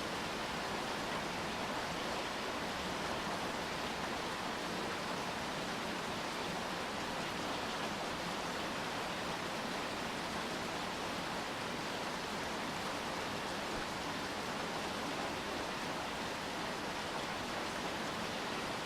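Steady rainfall, an even hiss with no distinct drops or breaks.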